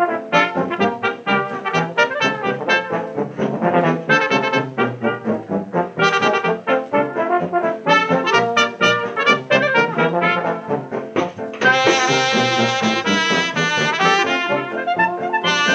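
Instrumental passage of a 1937 dance-band 78 rpm record, with brass (trumpet and trombone) playing a quick, busy melody over the band. About two-thirds of the way through, the band swells into a louder held passage for a couple of seconds.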